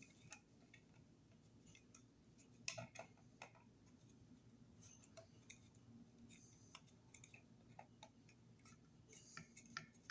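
Faint scattered clicks and taps of plastic wire mold raceway being trimmed and handled, with a small cluster of clicks about three seconds in.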